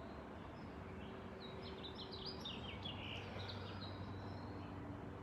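A songbird singing a quick run of short, falling high notes, starting about a second and a half in and lasting about two seconds, over steady outdoor background noise.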